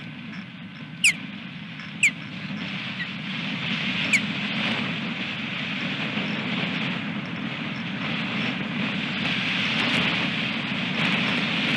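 Wind storm rushing over the nest microphone in a steady roar that builds a couple of seconds in, with a few short, sharp, downward-sliding chirps from an osprey, most of them in the first four seconds.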